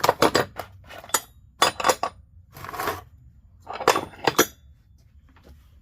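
Steel differential parts and bolts clinking and rattling as they are handled during assembly of an 8 3/4 Sure-Grip differential. The sound comes in about five short clusters of sharp metallic clicks, with a brief scrape in the middle.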